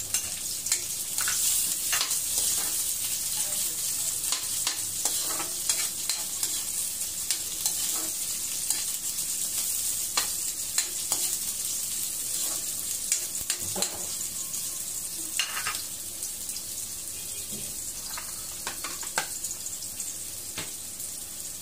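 Onions and tomato sizzling in hot oil in a steel wok, with a steady high hiss. A metal spatula stirs them, clicking and scraping against the pan now and then.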